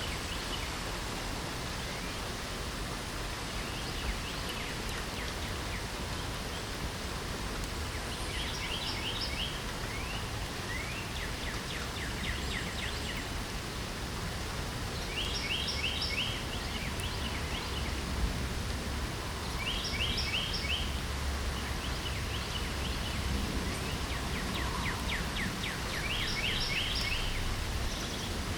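Steady hiss of light rain, with a songbird singing short, rapid trilled phrases every few seconds.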